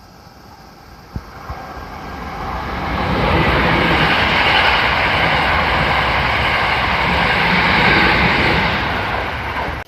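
A train running along the platform, growing louder over the first three seconds and staying loud, with a couple of faint clicks about a second in; the sound cuts off abruptly near the end.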